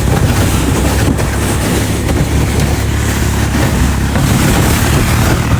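Honda Rancher 420 ATV's single-cylinder engine running steadily under way, with loud rushing wind noise over it.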